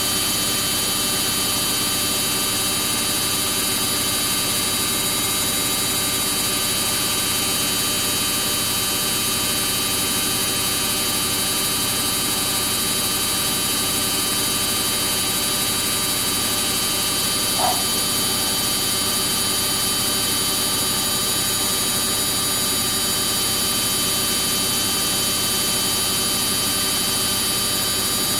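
Samsung EcoBubble front-load washing machine in its high-speed spin, a steady whirr with a high, even whine made of several steady tones; the drum is spinning very fast.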